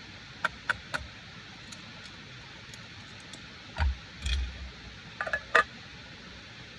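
A scattering of sharp clicks and taps, with two dull thumps about four seconds in, over a steady hiss.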